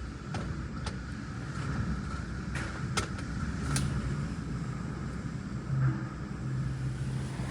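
Strong storm wind rumbling steadily, low and dull, with a low hum that comes and goes and a few sharp clicks or rattles.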